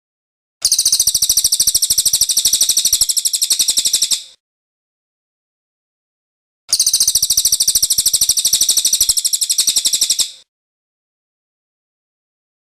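Cililin bird giving its rolling song (ngerol): a fast, even trill of many short, very high notes, in two bouts of about four seconds each with silence between.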